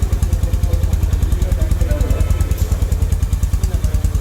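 Honda H'ness CB350's single-cylinder engine idling through its stock exhaust, a steady, even beat of about ten pulses a second with no revving.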